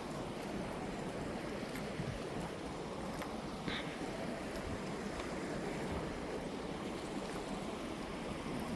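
Steady rush of flowing river water, with a brief high-pitched sound about three and a half seconds in.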